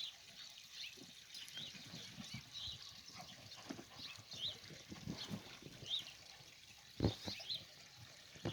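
Faint short high animal chirps, repeated many times, over soft low thumps and a light trickle of water.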